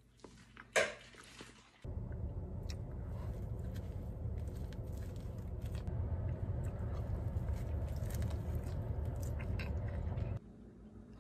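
A person biting and chewing burgers close to the microphone, with one loud bite about a second in and small wet chewing clicks after. From about two seconds in until near the end, a steady low rumble inside a car runs under the chewing.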